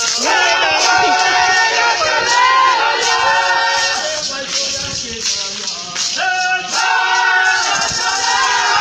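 Music with singing voices, the notes held long and several voices together.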